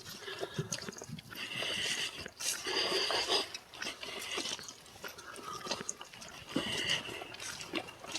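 Footsteps crunching on dry leaves and twigs along a woodland trail, an irregular crackling of steps.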